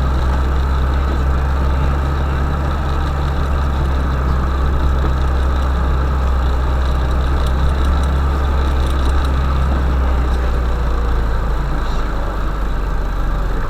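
UAZ Bukhanka van's engine running steadily with a loud, low drone.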